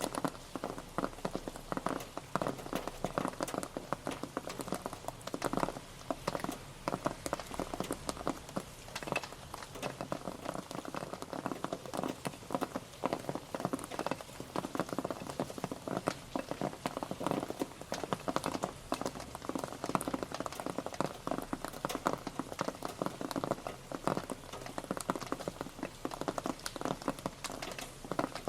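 Rain pattering steadily, a dense stream of individual drops ticking on a surface.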